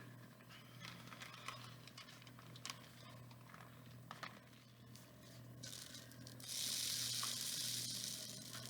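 Small beads being poured into a paper-wrapped cardboard rain-stick tube: scattered light clicks, then about two seconds of steady hissing rattle near the end.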